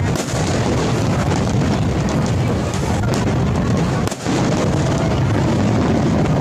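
New Year's fireworks going off in quick succession: a dense, continuous crackling and popping with a few sharper bangs, about three and four seconds in.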